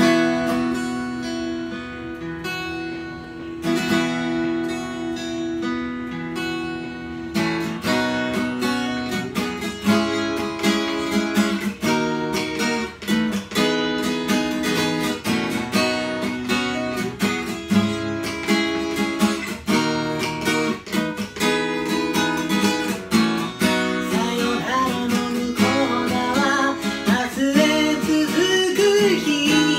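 Acoustic guitar: two chords left to ring for a few seconds each, then steady rhythmic strumming.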